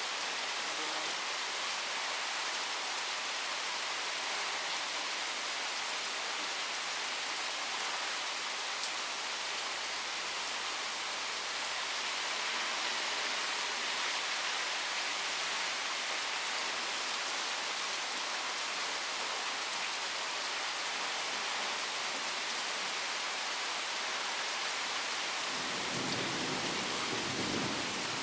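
Steady rain pouring down in a thunderstorm, an even hiss of water hitting surfaces.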